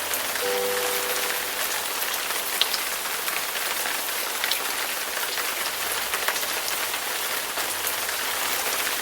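Steady rain falling, an even hiss with scattered individual drops ticking. The last few held notes of a song fade out in the first second or so, leaving only the rain.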